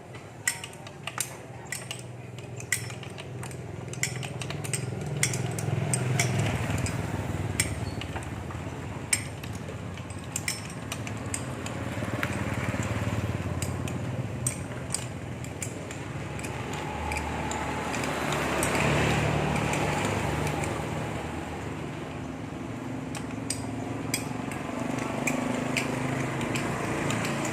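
Repeated light metallic clinks and taps of tools and metal parts being handled during hands-on pump repair work, over a steady background rumble that swells and fades a few times.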